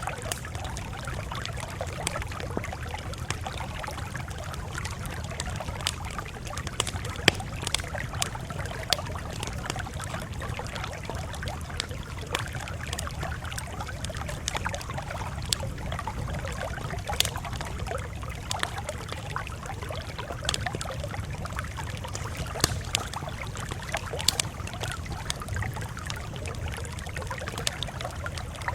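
Campfire crackling: irregular sharp pops and snaps, a few of them louder, over a steady low rumble.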